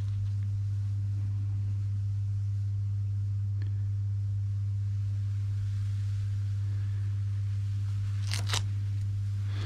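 A steady low hum with one even pitch, broken only by a faint click a few seconds in and a sharper click near the end.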